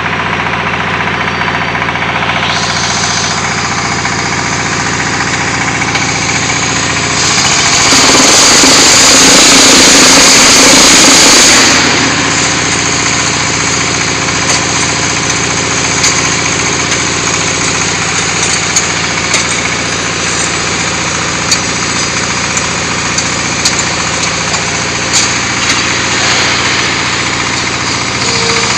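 Diesel engine of a QT4-30 hydraulic block machine running steadily. About seven seconds in, a louder rushing noise swells up and lasts some four seconds before dropping back. Later, scattered light clicks ride over the engine.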